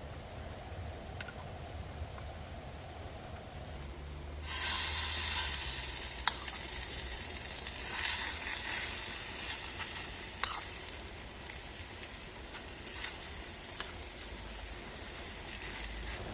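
Okonomiyaki batter hits a hot cast iron pan and starts sizzling suddenly about four and a half seconds in. The sizzle is loud at first, then settles to a steady frying hiss, with a couple of sharp clicks of a utensil on the pan. Low traffic rumble runs underneath.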